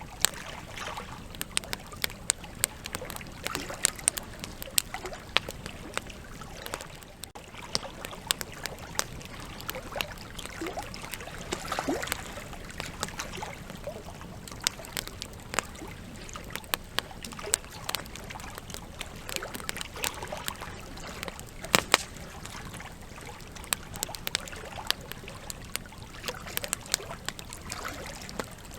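Campfire logs burning and crackling, with irregular sharp pops over a steady soft hiss; one especially loud pop about three-quarters of the way through.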